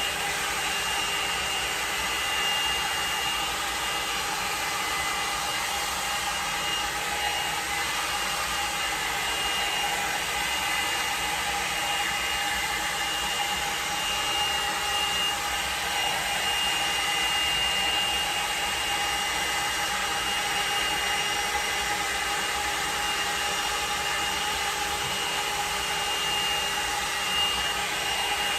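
L'ange hot-air blow dryer brush running steadily on its fan motor, a rushing blow with a steady high whine, as it dries thick wet hair.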